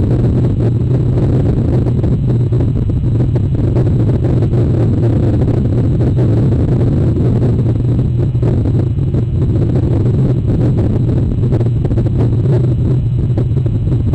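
Steady, loud low rumble of wind noise on the microphone, unchanging throughout.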